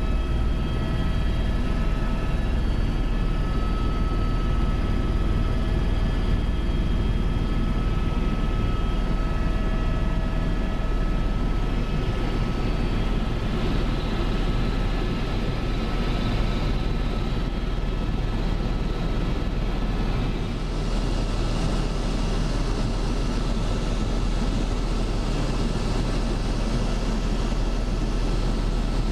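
Helicopter in flight heard from inside the cabin: a loud, steady drone with several high, steady whining tones running through it.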